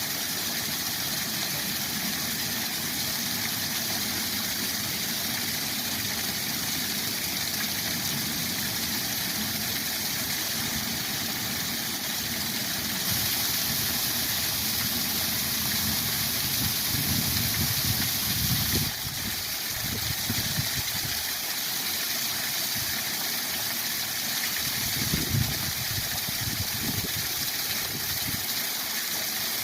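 Waterfall rushing with a steady, even roar, briefly louder and brighter about halfway through, with a couple of short low rumbles in the middle and near the end.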